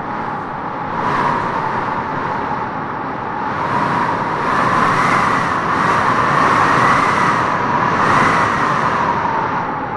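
Wind blowing, a steady rush with a hollow whistle that wavers up and down in pitch, swelling from about a second in and easing near the end.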